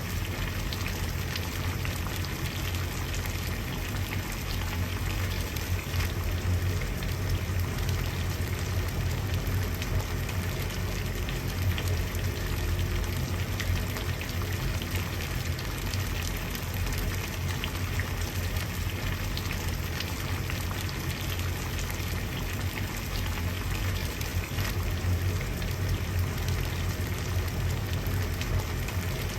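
Water at a rolling boil, a steady dense bubbling with a low rumble and many small pops.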